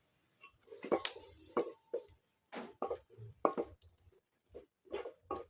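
A run of short, irregular knocks and clatters, about ten of them, starting about half a second in: objects being handled.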